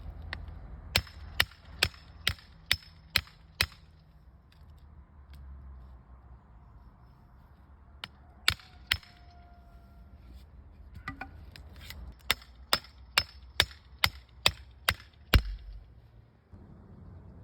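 Sharp metallic clicks, about two a second. There is a run of seven, then a pair about eight seconds in, then a run of eight near the end.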